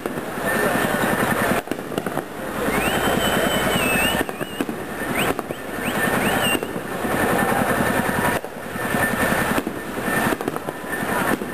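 Fireworks going off in dense, rapid volleys of firecracker bangs that merge into a continuous crackle, breaking off briefly several times. A few thin whistling tones glide up and down in the middle.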